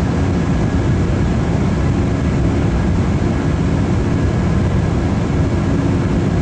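Embraer 190 jet airliner under way: steady noise from its twin turbofan engines and the airflow, a constant low rumble with a faint high whine on top.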